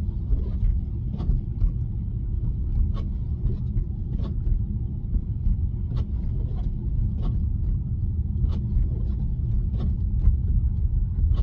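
Low, steady road and tyre rumble inside the cabin of a Tesla electric car driving on a snowy road, with scattered light ticks.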